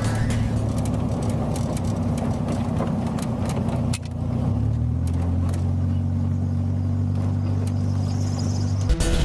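Trike engine running steadily while riding, heard from on board; its pitch shifts about four seconds in.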